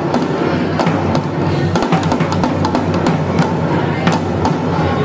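Garhwali dhol and damau drums played together in a fast, dense rhythm of stick and hand strikes, with a steady booming low end under sharp cracks.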